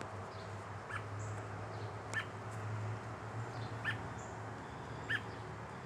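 American robin giving short, sharp chirps, four in all, about one every second or so, over a faint steady low hum.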